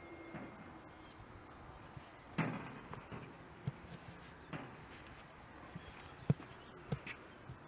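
Scattered light knocks and clicks, a short scrape-like cluster a couple of seconds in and the sharpest knock about six seconds in, over faint background noise.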